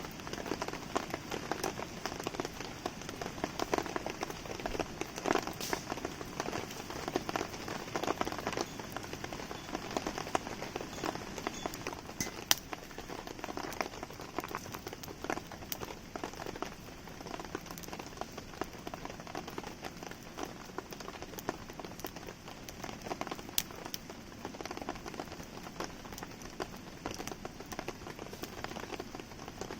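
Steady rain falling and pattering, with the sharp pops and crackles of a wood campfire scattered through it; the loudest pop comes about halfway through.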